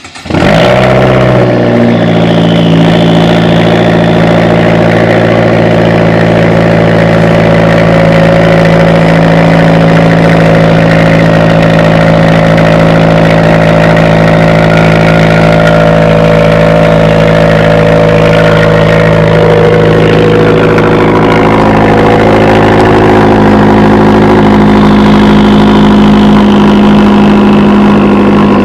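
2015 Fiat 500 Abarth's 1.4-litre turbocharged four-cylinder cold-starting: it catches at once and flares, then settles within a couple of seconds into a loud, steady cold idle.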